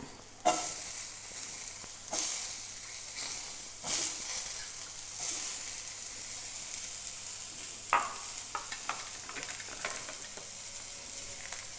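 Brinjal slices sizzling steadily in hot oil in a non-stick frying pan as sliced onions go in. The sizzle swells suddenly about two and four seconds in, and there are a few sharp clicks and light ticks near the end.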